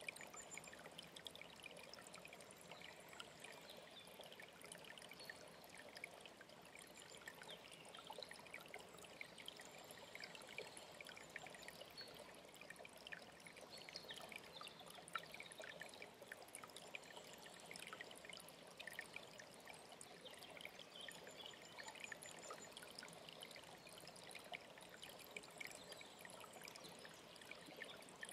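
Mountain stream trickling and splashing steadily, with many quick small splashes.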